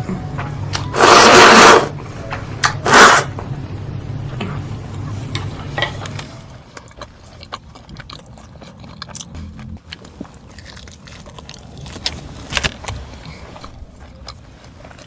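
Close-miked eating sounds: two loud noisy crunches or rustles, a longer one about a second in and a shorter one about three seconds in, followed by quieter chewing clicks and mouth smacks.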